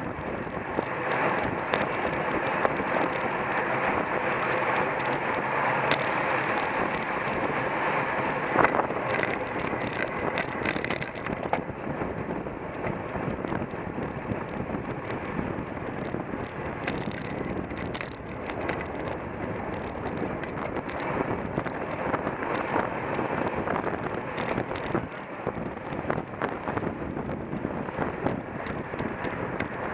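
Wind rushing over the microphone of a camera mounted on a racing road bicycle, with steady tyre and drivetrain noise and scattered short rattles.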